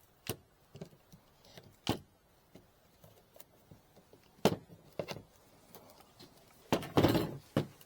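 Wooden beehive frames being handled: scattered sharp knocks and clacks, with a longer, louder clatter near the end.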